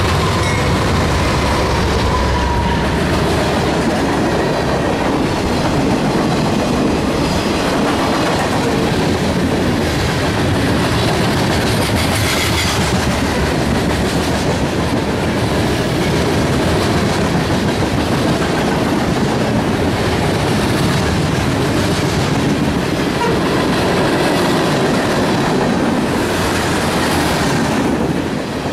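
A freight train passing close by at speed: the last diesel locomotives rumble past at the start, then a long string of freight cars goes by with steady wheel clatter and rumble over the rails.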